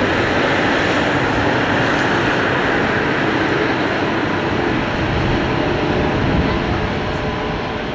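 Jet engines of a Bombardier CS300 (Airbus A220-300), its Pratt & Whitney PW1500G geared turbofans running at taxi power close by: a steady rushing jet noise with faint whining tones, easing slightly near the end.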